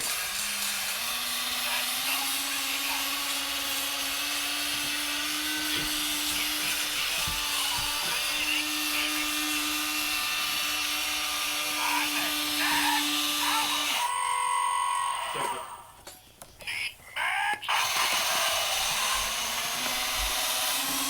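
Small electric motor running with a steady whine; its pitch rises slightly during the first two seconds. It stops about fourteen seconds in, a few knocks and clicks follow, and it starts up again near the end.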